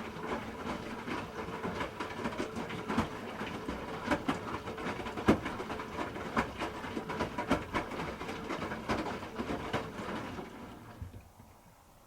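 Hoover H-Wash 300 Plus washing machine drum turning during a rinse: a steady motor hum under irregular knocks and clacks from the tumbling load. It winds down and stops about eleven seconds in.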